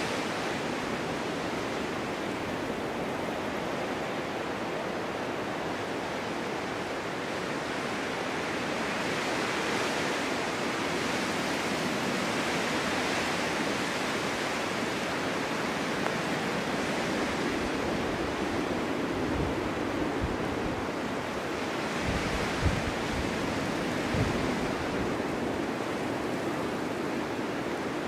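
Winter storm wind blowing steadily, swelling and easing slowly, with a couple of low thuds near the end.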